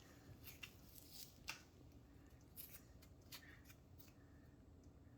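Near silence in a small room, with a few faint, scattered clicks and rustles.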